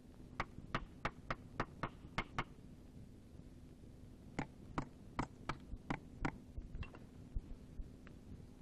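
Sharp taps, about four a second, in two runs of seven or eight separated by a short pause, over a faint steady hum.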